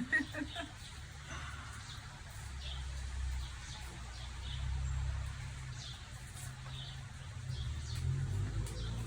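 Birds chirping and singing in the background, short scattered calls, over a steady low rumble.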